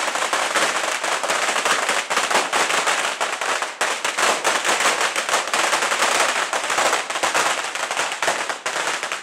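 A string of Chinese firecrackers going off in a fast, continuous rattle of bangs that stops abruptly at the end.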